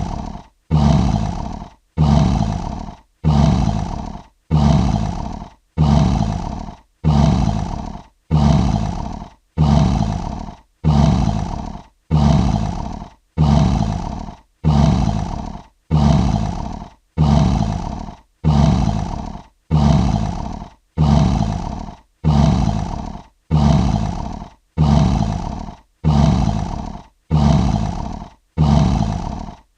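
A lion's roar sound effect played as a loop: the same roar, about a second long, repeats a little less than once a second. Each one starts loud and fades before the next.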